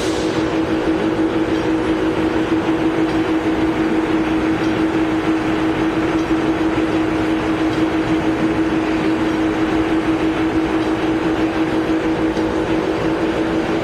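Poreba TCG 160 engine lathe running under power with a steady whine over mechanical clatter.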